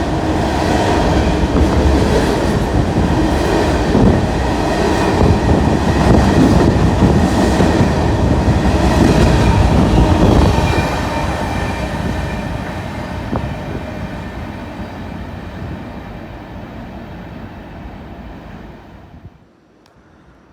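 A train passing, loud for about ten seconds, then fading away as it moves off, until the sound cuts off abruptly near the end.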